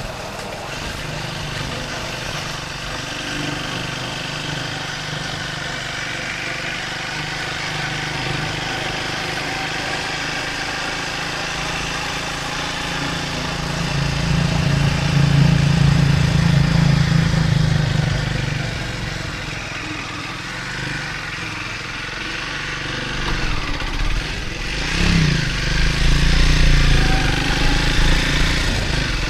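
Triumph Speed 400's single-cylinder engine running as the bike is ridden. It gets louder about halfway through and again near the end.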